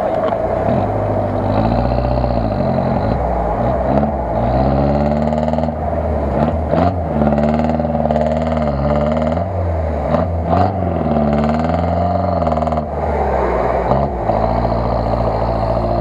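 An off-road SUV's engine revving up and down over and over, working to pull through deep water and mud, with a steady higher drone underneath.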